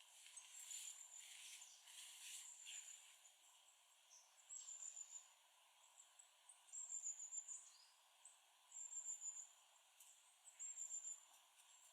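Faint, thin, high-pitched bird calls, short phrases repeated about every two seconds over a quiet woodland hush, with a soft rustling in the first few seconds.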